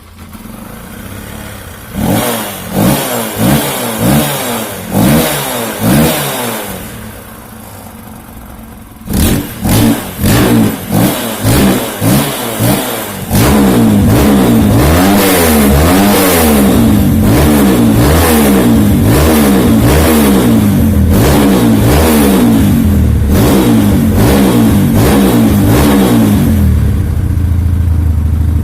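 Kawasaki KLX single-cylinder engine through an aftermarket racing exhaust with a swapped baffle insert, revved in two series of short throttle blips and then held at high revs for about thirteen seconds, its pitch rising and falling quickly. It drops back to idle near the end.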